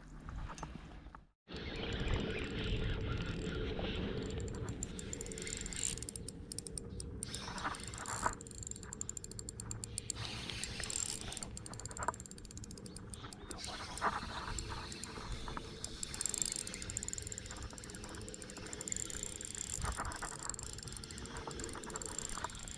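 Fishing reel being worked, a mechanical whirring with scattered clicks over a steady low rumble, after a brief dropout about a second in.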